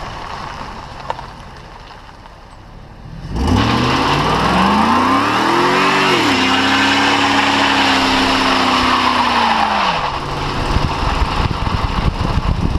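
Car doing a burnout: the engine revs up sharply about three seconds in, climbs for a couple of seconds, then holds high and steady for about four seconds with the tyres squealing, before dropping back to a lumpy idle.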